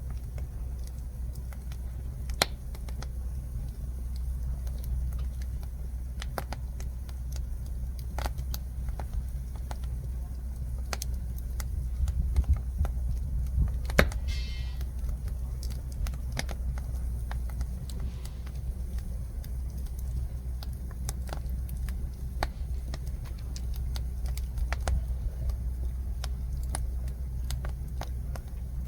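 Jujube-wood firewood fire crackling, with irregular sharp pops throughout. The loudest pop comes about halfway, followed by a short high-pitched hiss.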